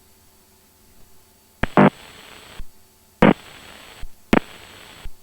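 Aircraft VHF radio keyed open three times with no words: each time a click and sharp burst, about a second of static hiss with a thin high whine, then a click as it closes. Under it, a faint steady hum of the intercom.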